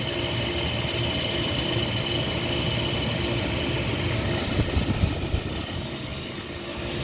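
Outdoor air-conditioner condensing unit running just after starting up: a steady compressor hum and fan, with a steady high tone over it. A few brief low bumps come about five seconds in.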